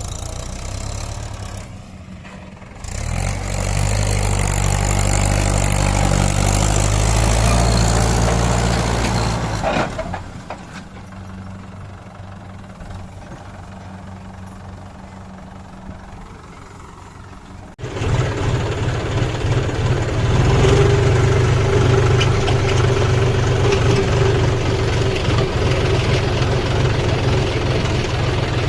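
Kubota combine harvester's diesel engine running. It gets louder about three seconds in and quieter around ten seconds. It jumps back up suddenly near eighteen seconds, with a steady whine on top.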